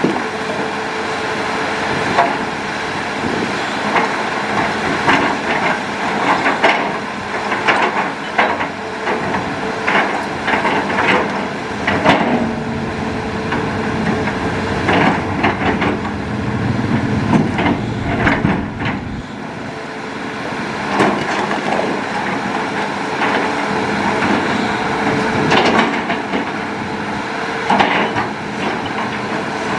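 Hitachi Zaxis excavator's diesel engine running steadily, with frequent knocks and crunches as the bucket digs.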